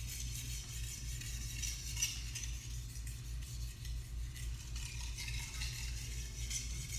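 Carbon-steel gyuto blade being stroked back and forth on a 1000-grit Suehiro Debado whetstone, a continuous gritty scraping. It sounds crunchy from extra grit on the stone, probably left over from the lower-grit stone.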